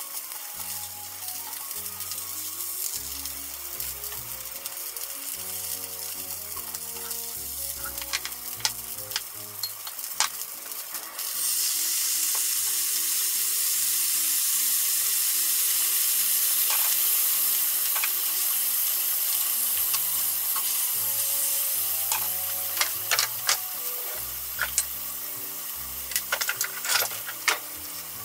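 Pork-wrapped rice balls sizzling as they fry in a frying pan. About eleven seconds in, the sizzle jumps suddenly louder as barbecue sauce hits the hot pan, then eases off. Near the end come a few sharp clicks and taps, over soft background music.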